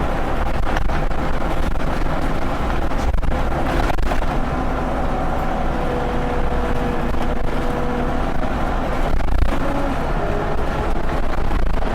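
Scania OmniLink single-deck bus running and driving, a steady engine and drivetrain hum whose tones hold and then shift in pitch, with scattered knocks and rattles.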